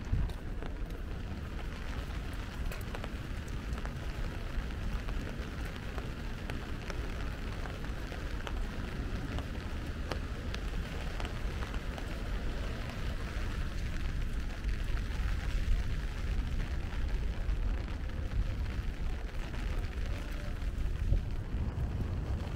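Steady rain falling: a continuous hiss dotted with sharp drop ticks, over a low rumble.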